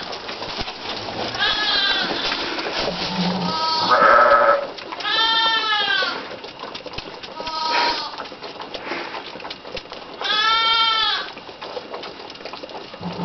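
Bottle-fed runt piglets squealing: about five separate cries, each under a second and rising then falling in pitch, with one harsher squeal about four seconds in and a low grunt just before it.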